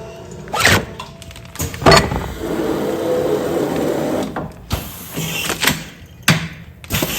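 Food-container sealing machine working through its sealing cycle: several sharp clunks, and a steady motor run of about two seconds in the middle.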